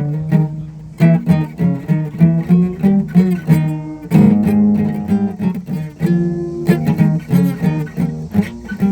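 Guitar playing, with strummed chords and plucked notes coming in quick succession.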